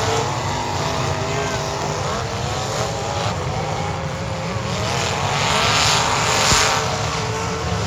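Several demolition derby car engines revving, their pitches wavering up and down over a rush of noise. The noise swells louder from about five seconds in, with one sharp knock in the middle of the swell.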